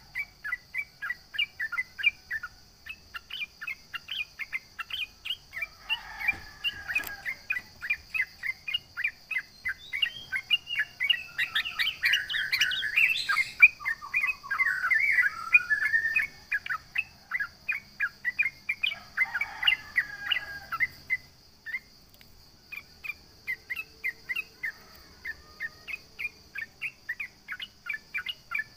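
Yellow-vented bulbul (trucukan) calling in rapid short chirps, about three a second. Several times it breaks into louder, jumbled bubbling song phrases, the longest running for several seconds near the middle. A steady high hiss sits behind.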